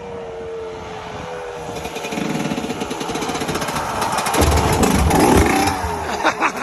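Motorcycle engine revving and getting louder as the bike accelerates, loudest about two-thirds of the way through, followed by a few sharp knocks near the end.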